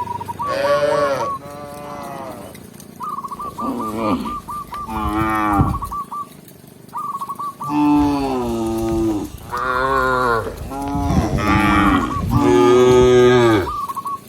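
Cows mooing, about eight long calls, several overlapping, most sliding down in pitch. A short, high, rapidly pulsing tone comes back several times between the calls.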